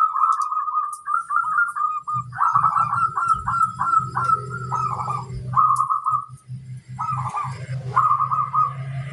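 Zebra dove (perkutut) cooing in rapid trilled bursts around one pitch, with short pauses between phrases. A low steady hum runs underneath from about two seconds in.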